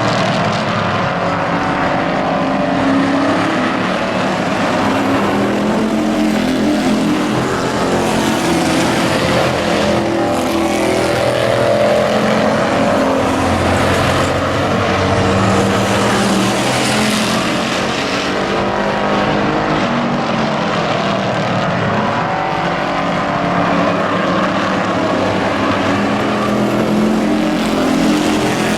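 Several race truck engines running hard around a short oval, their pitch rising and falling as the pack laps and passes, with tyre and engine noise blending into a continuous drone.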